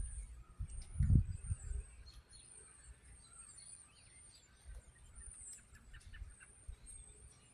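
A flock of birds giving high, thin calls over and over, many overlapping. Low gusts of wind buffet the microphone, strongest about a second in.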